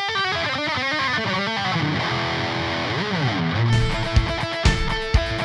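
Rock music led by electric guitar. A quick melodic line includes a pitch slide up and back, and about two-thirds of the way through a drum kit comes in with a steady beat.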